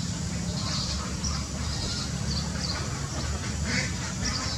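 Several birds calling over one another in short, repeated calls, some high and chirping, over a steady low hum.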